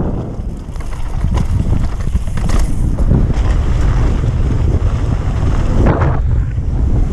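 Strong wind buffeting the microphone, a heavy steady rumble, with scattered short knocks and scrapes, the loudest about six seconds in.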